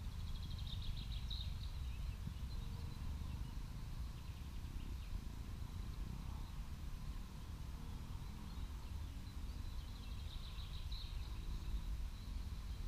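Quiet ambience with a low, steady rumble. A high, rapid bird trill, about a second long, is heard twice: near the start and again near the end.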